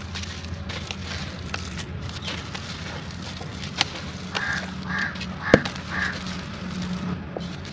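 Dry sand and cement clumps crumbling, with scattered crackles and one sharp snap about halfway through, over a steady low hum. Four short, evenly spaced calls sound in the background just before and after the snap.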